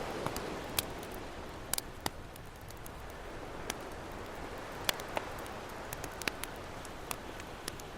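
Campfire crackling, with sharp irregular pops over a steady wash of ocean waves.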